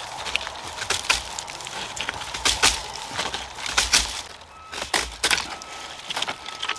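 Wood cracking and splintering: a series of sharp cracks and snaps, about seven over several seconds, as a found branch is broken and worked by hand.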